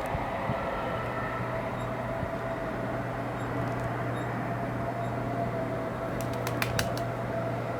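Passing train: steady running noise with a low hum and a steady whine. A few sharp clicks come about six to seven seconds in.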